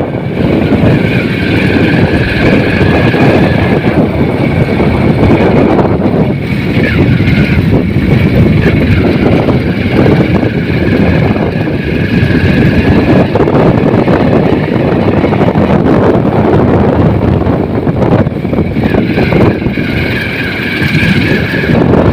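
A vehicle on the move: steady engine and road noise with wind buffeting the microphone. A faint high whine fades in and out over it.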